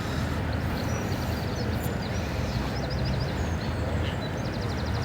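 Lakeside outdoor ambience: a steady low rumble, with scattered high bird chirps and a quick run of chirps near the end.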